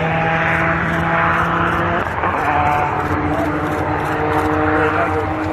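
Large engine running at a steady speed, a loud even drone whose pitch steps down about two seconds in.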